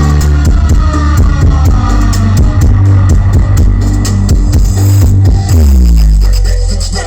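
Electronic dance music played very loud through a truck-mounted carnival sound system, with heavy bass and descending synth sweeps.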